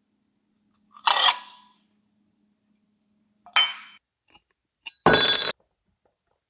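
Hard metal objects clinking, twice with a short ring, then a louder half-second clatter about five seconds in.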